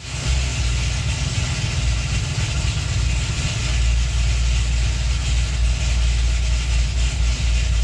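Supercharged performance V8 engine idling steadily with a deep rumble.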